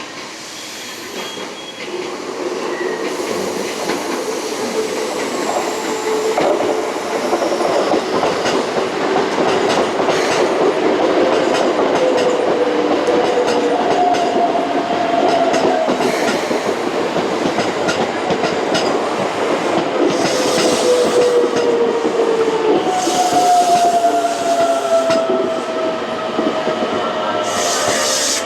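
Electric commuter train running along the station track, with wheels clattering over rail joints and whining tones that drift slightly down in pitch. The sound builds over the first few seconds, then stays loud.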